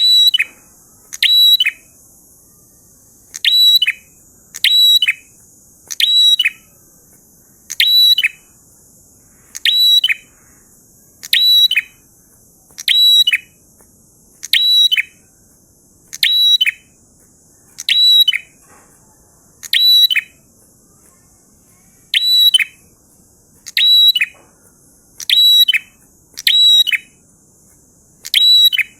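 A prinia (prenjak) calling over and over, about twenty loud, sharp, high call notes spaced roughly a second and a half apart, some in quick pairs, over a steady faint high hiss.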